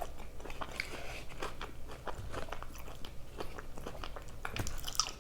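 A person chewing a mouthful of food close to the microphone: a soft, steady run of small quick clicks and light crunches.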